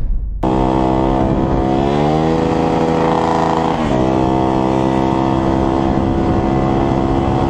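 Motorcycle engine running hard at high revs, starting suddenly about half a second in; its pitch climbs around two seconds in, drops sharply near four seconds, then holds steady.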